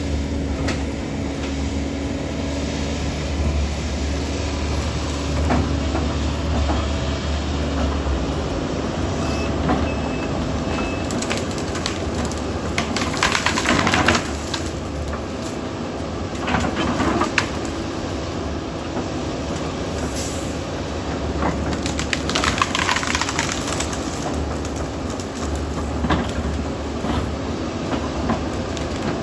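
Heavy diesel excavator running steadily with a low engine drone. Twice, about halfway through and again about two-thirds of the way in, louder rattling bursts of noise rise over the drone.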